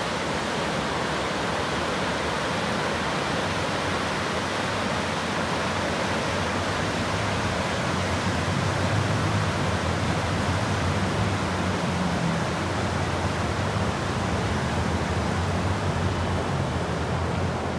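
Steady rushing wind noise on a moving motorbike, with a low steady engine hum underneath.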